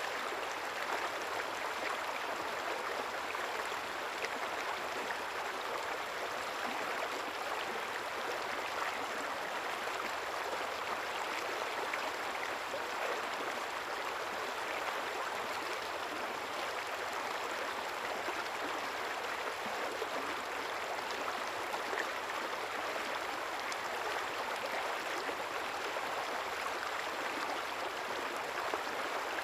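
River water flowing steadily, a continuous rushing and babbling with small splashes.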